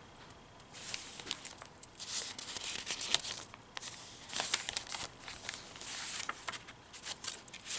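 Paper rustling and crinkling in irregular bursts as the pages and envelope pockets of a handmade junk journal are handled and turned.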